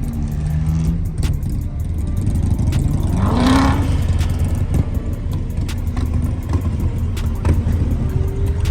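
Car engine idling with a steady low rumble, with one short rev rising in pitch about three and a half seconds in.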